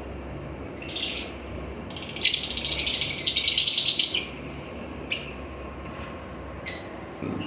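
Pet parrots calling: short, high squawks about a second in and again near the end, with a loud two-second run of rapid chattering in the middle.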